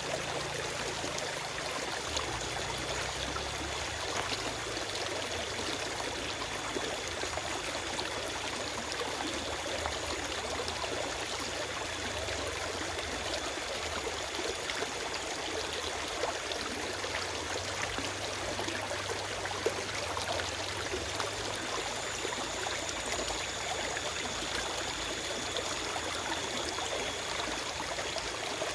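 Forest stream flowing over rocks: a steady, even rush of water with small splashes and trickles, and no birdsong.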